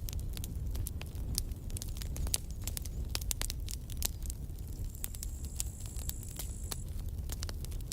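Campfire burning, the wood crackling with many sharp pops over the low rumble of the flames. About five seconds in, a thin high hiss sounds for nearly two seconds.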